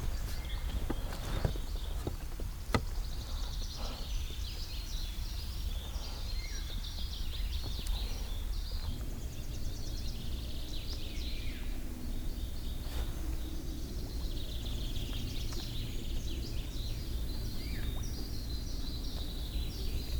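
Birds singing and calling with many short chirps and trills, over a low steady rumble. A couple of faint clicks come about three seconds in and again about thirteen seconds in.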